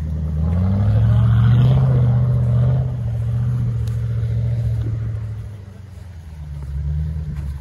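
A 4x4 SUV's engine revving up about a second in and held at higher revs for a couple of seconds as it drives up a snowy track, then easing off to lower revs, with a short rise again near the end.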